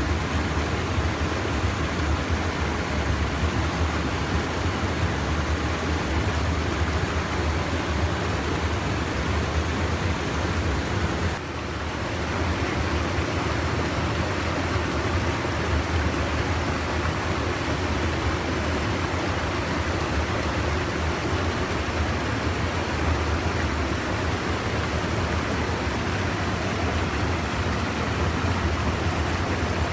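Steady, unbroken rush of stream water pouring over a small check dam, with a deep rumble under it. The sound dips briefly about eleven seconds in.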